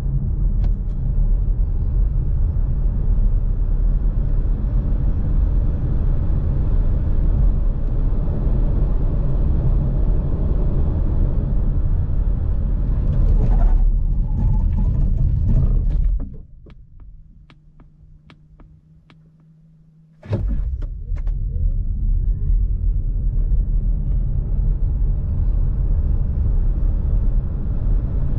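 A 2022 Polestar 2 Long Range Single Motor accelerating hard: its single front electric motor whines, rising in pitch over heavy road rumble. About 16 seconds in, the noise falls away for about four seconds to a quiet low hum with scattered clicks. Then a second run starts, the motor whine climbing again from low.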